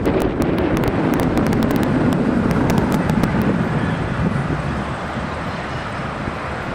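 Road traffic, a steady rush that eases a little after about four seconds, with faint clicks during the first few seconds.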